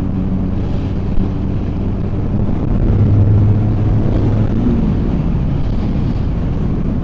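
Honda Rebel 250 motorcycle engine running steadily while riding, under a haze of wind and road noise. The engine note gets a little louder about three seconds in.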